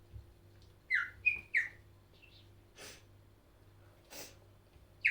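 Short, high whistled chirps: three quick ones about a second in and another at the end, with two soft breathy puffs between them.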